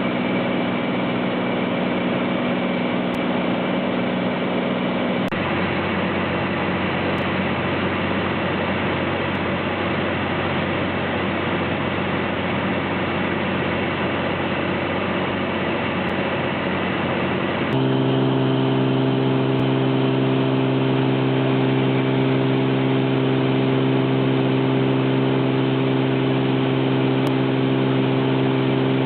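Light propeller airplane's piston engine droning steadily, heard from inside the cabin. The pitch of the drone changes abruptly about five seconds in and again near eighteen seconds, where it also gets slightly louder.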